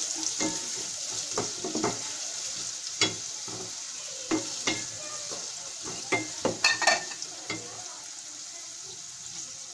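Sliced onions and pieces of dried ribbonfish (churi shutki) sizzling in hot oil in a metal pot. A wooden spoon scrapes and knocks against the pot as they are stirred. The knocks stop about eight seconds in, leaving a steady sizzle.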